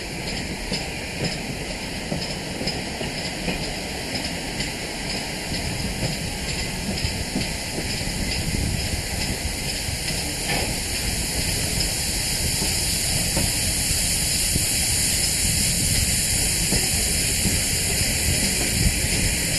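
Passenger train running along, heard from an open carriage window: a steady rush of air and wheel-on-rail noise that grows louder as the train gathers speed.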